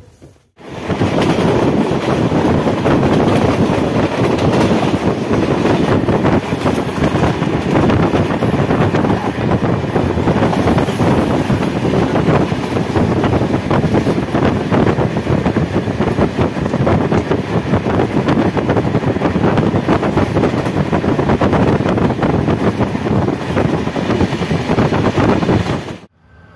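Loud, steady running noise of a train at speed heard from on board: wheels on the rails. It cuts in about half a second in and cuts off just before the end.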